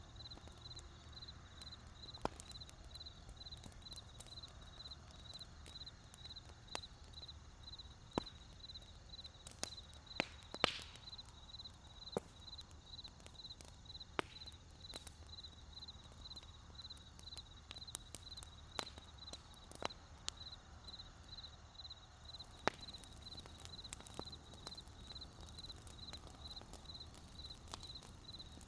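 Wood fire crackling, with scattered sharp pops that cluster about ten seconds in, over a faint low rumble. A steady, high, evenly pulsing tone runs underneath throughout.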